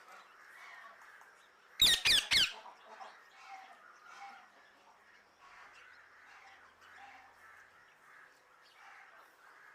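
Parrot letting out three loud, harsh squawks in quick succession about two seconds in, with quieter chattering sounds before and after.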